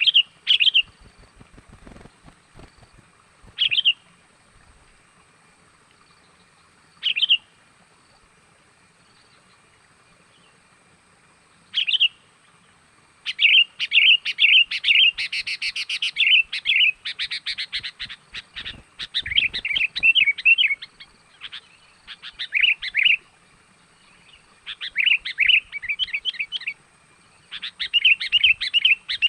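Sooty-headed bulbul (kutilang) lure call for drawing wild birds: short chirpy phrases every few seconds at first, then from about halfway on, rapid, almost continuous chirping.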